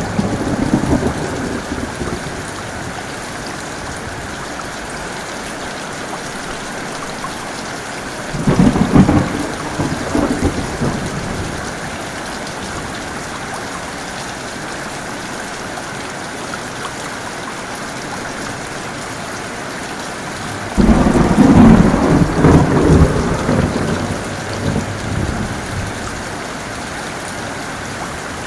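Steady heavy rain with rolling thunder. A rumble fades out at the start and another comes about eight seconds in. A louder peal breaks suddenly about twenty-one seconds in and rolls on for several seconds.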